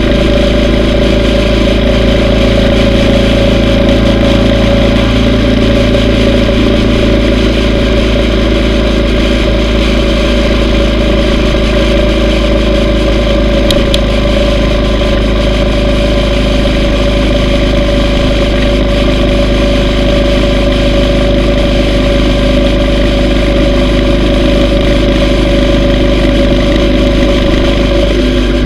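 Yamaha V Star 950 Tourer's air-cooled V-twin engine running steadily at a constant pitch while cruising, with no change in revs.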